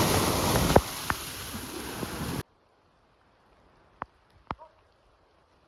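Loud rushing noise of wind and heavy rain on the camera microphone while cycling through a downpour, with a sharp knock about a second in. It cuts off abruptly about two and a half seconds in, leaving near quiet with a few faint clicks.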